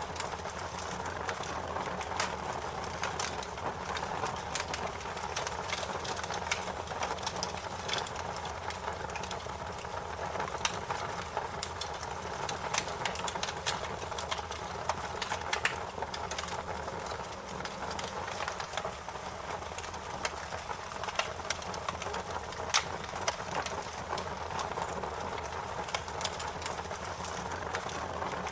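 Wood fire crackling: a steady hiss with frequent, irregular sharp pops and snaps.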